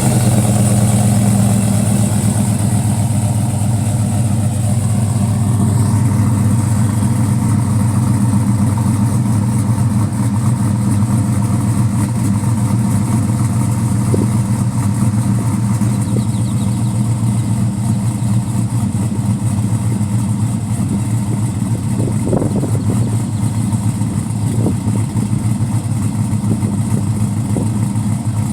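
Cammed 5.3-litre V8 idling steadily through a 3.5-inch exhaust with a Flowmaster Hushpower Pro Series muffler, just after being started.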